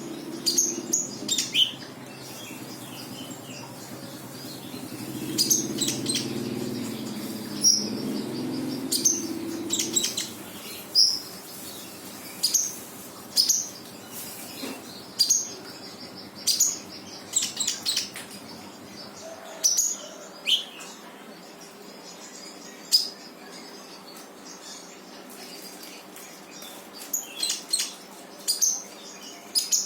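Konin songbird singing in a fast run of short, loud, high chirps and whistled notes, phrase after phrase with brief gaps. A low hum lies under the song for the first ten seconds or so.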